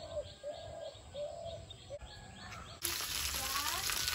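A bird calling, one short note repeated about twice a second. About three seconds in it cuts to the louder hiss of oil sizzling around pieces of fish frying in an iron pan.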